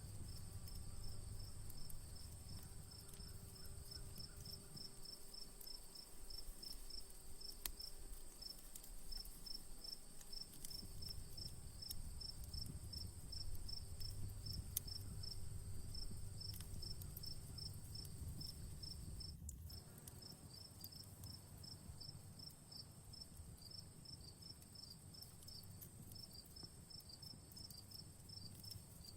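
Crickets chirping in a steady rhythm, about three chirps a second, over a continuous high insect trill. A few faint crackles from a campfire.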